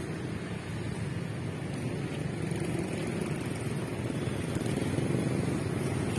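Steady low rumble of a distant diesel train mixed with street traffic, slowly growing louder.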